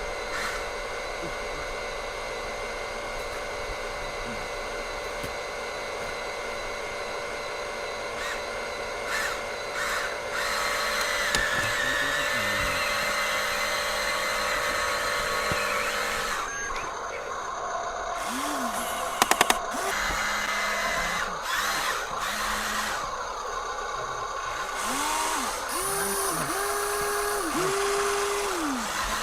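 Electric motors and gearboxes of toy radio-controlled construction machines whirring, the pitch swinging up and down as the controls are worked, with a brief rattle of sharp clicks about two-thirds of the way through.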